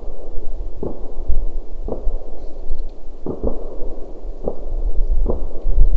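Distant fireworks going off: about six muffled bangs at irregular intervals, two of them in quick succession about halfway through, over a steady low rumble.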